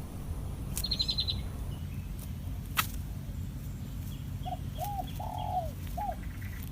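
Wild birds calling. A short rapid high trill comes about a second in, and a sharp click just before three seconds. Later comes a series of four low cooing notes, over a steady low background rumble.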